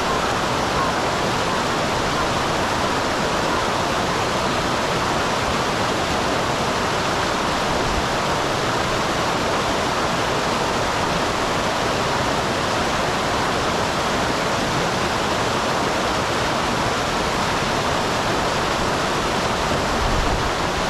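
Small waterfall in a mountain stream: water pouring and splashing in a steady, even rush.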